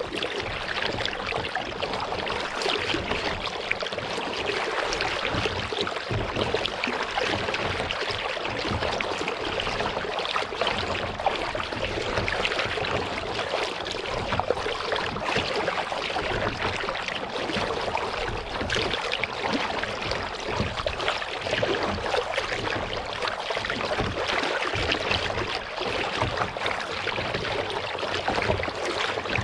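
Water lapping and trickling against a kayak on a calm lake, a steady fine splashing without pause.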